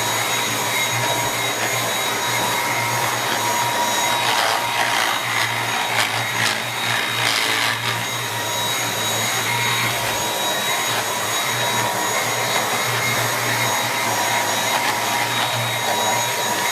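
Dyson V8 cordless stick vacuum with its mini motorised brush head running steadily, a high motor whine over the suction noise, with a rougher patch of brush-on-surface noise about four to eight seconds in.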